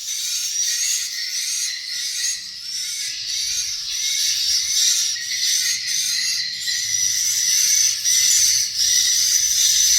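Many swiftlets twittering at once in a dense, unbroken chorus of high chirps.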